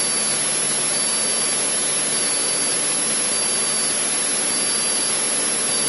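Cessna 152's four-cylinder Lycoming engine and propeller droning steadily in the cockpit, a constant rushing noise at reduced approach power of about 2000 rpm. A faint high tone pulses on and off about once a second.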